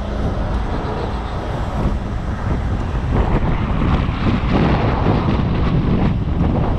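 Heavy tow truck's engine running under a light pull, with wind buffeting the microphone; it gets a little louder about three seconds in.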